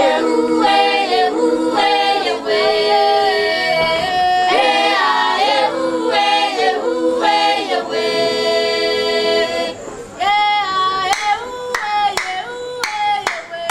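A group of voices singing together in harmony, without instruments. From about eleven seconds in, sharp hand claps, roughly two a second, join the singing.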